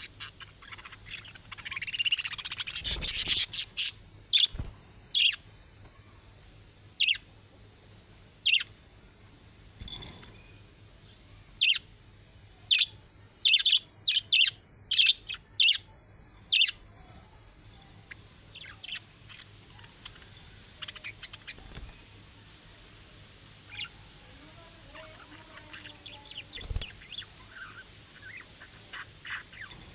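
Budgerigars chirping: a burst of busy chatter in the first few seconds, then short sharp chirps, several in quick succession in the middle, and softer chirps near the end.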